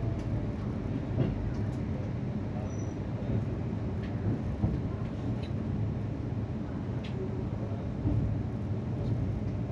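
Steady low rumble of a Shatabdi Express passenger coach rolling slowly out of a station, heard from inside the coach, with a few faint clicks from the wheels and running gear.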